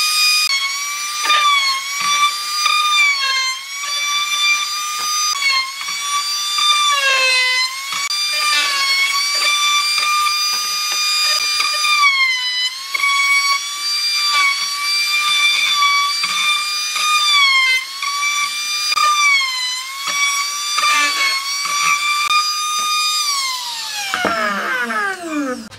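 Electric power tool motor running with a high whine. Its pitch dips again and again as the tool bites into the work under load, then the motor winds down steeply near the end as it is switched off.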